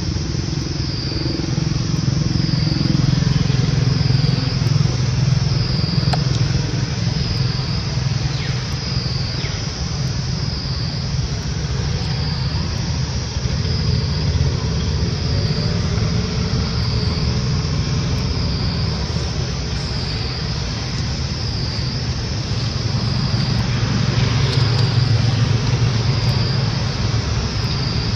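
Outdoor background: a steady low rumble under a high, thin drone that swells and dips evenly about every second and a half.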